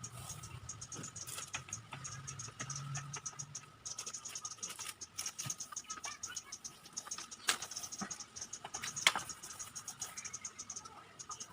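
Insects chirping in fast pulsing runs over a steady high insect drone, with scattered small clicks and scrapes and two sharper clicks in the second half.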